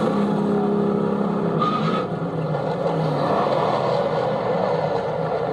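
Car engine running loud and revving, holding a steady note for about the first two seconds, then changing pitch.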